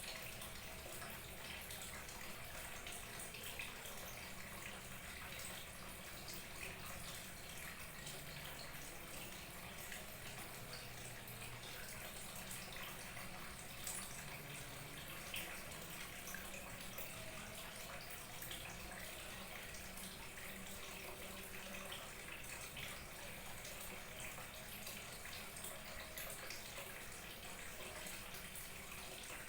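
Small waterfall trickling and splashing steadily, a continuous babble of water with many small drips and splashes.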